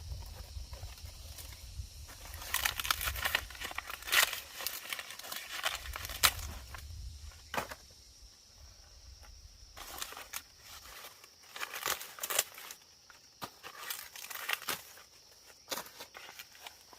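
Dry plant material rustling and crackling, with irregular sharp snaps and footsteps, as of hands working through dry leaves or husks. A low rumble sits underneath until about two-thirds of the way through.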